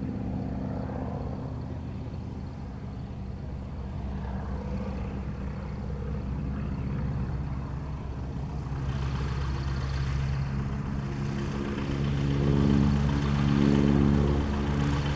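Cessna 195's radial engine running steadily, growing louder over the last few seconds.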